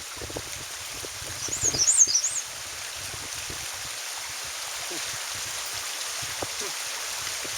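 A small songbird singing one short, high-pitched phrase of quick up-and-down notes about a second and a half in, over a steady background rush.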